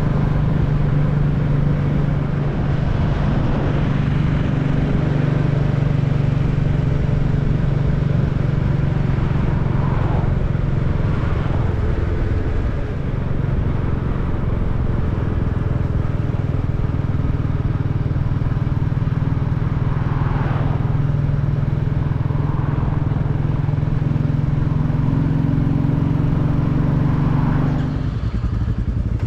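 Royal Enfield Classic 350 single-cylinder motorcycle engine running at a steady cruise while riding. The engine note drops slightly near the end as the throttle eases off.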